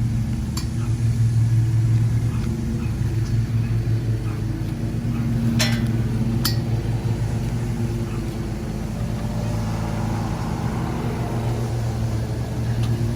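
A vehicle engine idling steadily with a low hum, with a few sharp knocks about half a second in and twice around six seconds in.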